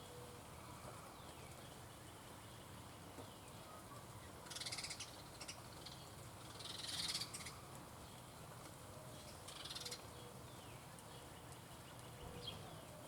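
Birds calling: three short, harsh, raspy calls a couple of seconds apart, the first with a rapid rattle, then a few faint chirps near the end over a low, steady background hum.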